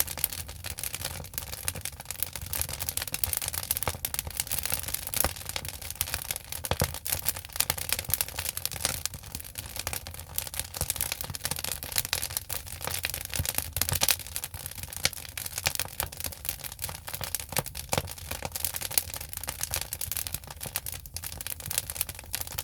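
Firewood burning in an agungi, the wood-fired furnace of a Korean ondol floor, crackling with many irregular snaps and pops over a low steady rush.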